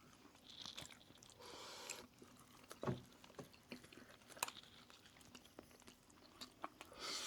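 Faint, close-miked chewing of roast chicken: scattered wet clicks and smacks of the mouth, with a couple of short crunchy patches in the first two seconds.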